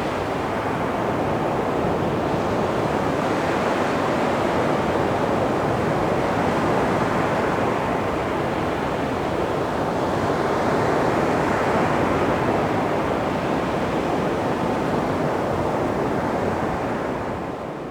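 Calm sea waves washing onto a beach, a steady surf hiss that swells gently now and then and fades out near the end.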